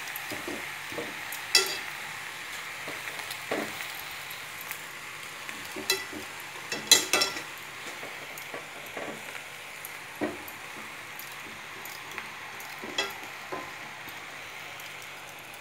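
Spinach and tomato sizzling in oil in a steel pan, a steady hiss, with scattered knocks and clinks as the pan and leaves are handled; the loudest clatter comes about seven seconds in.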